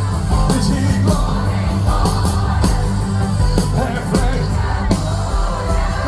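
Loud live band music with heavy bass and regular drum hits, and voices singing over it.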